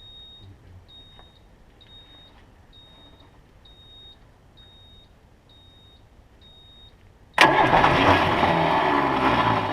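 A high beep repeats steadily, about once a second, eight times; then about seven seconds in, a starter suddenly cranks the International water truck's diesel engine loudly without it catching, a start attempt after bleeding air from the fuel system.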